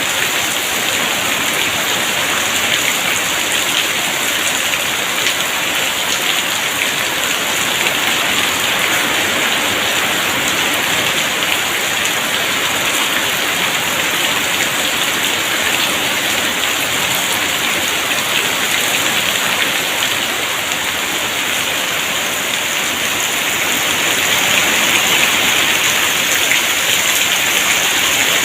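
Heavy rain pouring steadily, a dense even hiss that swells slightly louder near the end.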